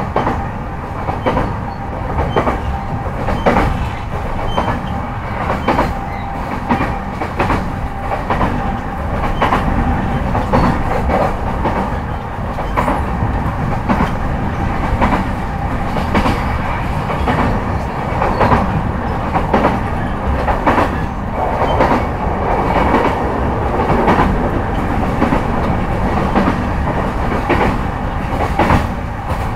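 Interior running sound of a JR East E233-5000 series electric train, recorded in one of its motor cars while it runs between stations: a steady rumble and hum with a constant tone underneath, and wheels clacking over rail joints again and again.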